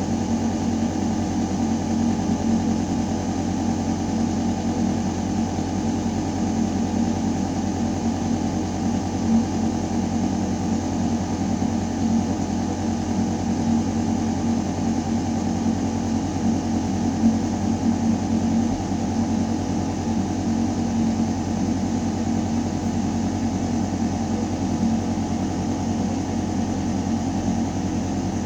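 Building ventilation system running in a shaft: a steady, low mechanical hum with air moving through metal ductwork, unchanging throughout.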